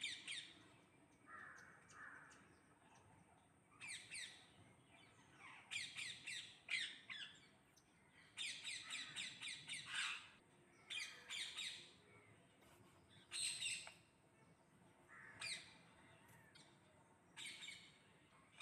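A parrot calling in repeated bouts of rapid, high, squawky chirps, each run lasting from half a second to about two seconds with short gaps between.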